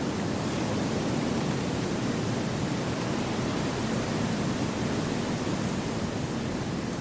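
Wind blowing through forest trees: a steady, even rush of noise with no distinct events.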